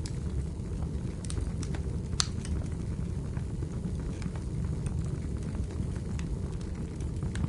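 Wood fire burning in a fireplace: irregular sharp crackles and pops over a steady low rumble, with one louder pop about two seconds in.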